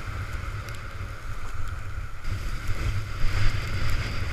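Storm-force wind buffeting the microphone in an uneven low rumble, over a steady hiss of wind and breaking waves that brightens about halfway through.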